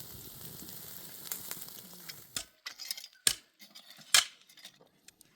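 Food sizzling with a steady crackling hiss that stops about two seconds in, followed by a few sharp clicks and knocks of utensils, the loudest two near the end.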